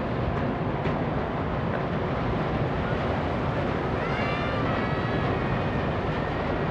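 Steady low rumble and rush of the ferry Ogasawara Maru getting under way. About four seconds in there is a brief high call that rises and then holds.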